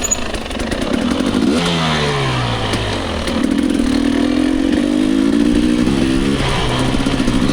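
Dirt bike engine running under the rider on a trail, easing off, blipping up briefly about a second and a half in, then holding a steady pitch through the middle, with a constant rush of noise and some rattling.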